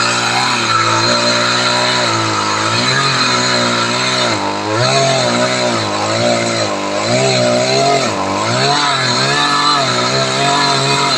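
Makita 40 cc two-stroke chainsaw running at high speed. After a steady start, its pitch repeatedly sags and climbs back, the engine bogging and recovering as the chain cuts into wood.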